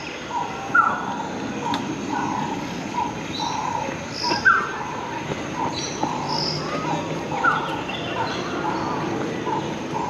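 Birds chirping and calling, short repeated calls about every half second with a few quick rising chirps.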